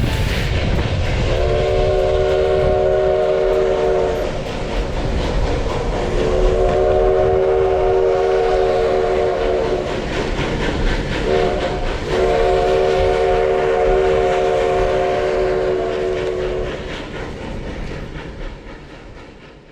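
Steam locomotive's chime whistle blowing long, long, short, long, each blast a chord of several steady tones: the standard signal for approaching a grade crossing. The train's running noise and wheel clatter go on underneath and fade near the end.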